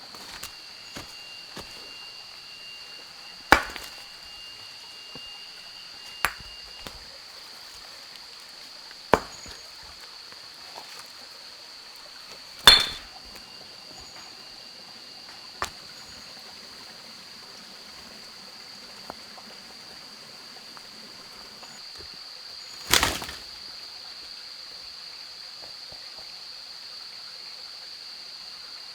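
Steady high-pitched insect drone, with about half a dozen sharp knocks or chops scattered through it. The loudest knock comes about halfway through and another about three-quarters of the way in.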